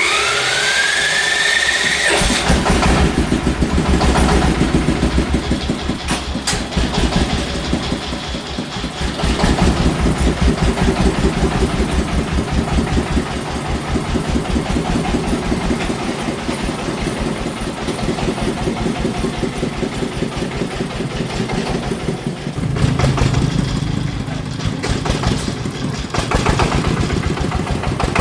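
A vehicle engine starting: a rising whine for about two seconds, then the engine catches and runs with a fast, even chugging. The note shifts about 23 seconds in.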